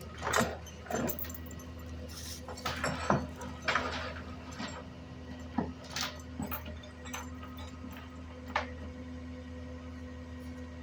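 Tow truck engine running with a steady low hum, while about a dozen irregular metal clanks and knocks sound as the tow cable is released from its hook.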